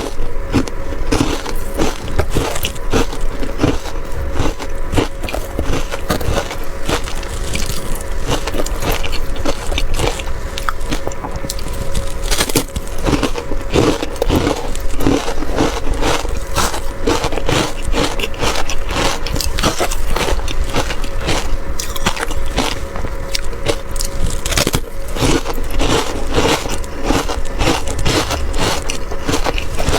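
Ice being bitten and crunched close to the microphone: a rapid, continuous run of crisp crunches, with a faint steady hum underneath.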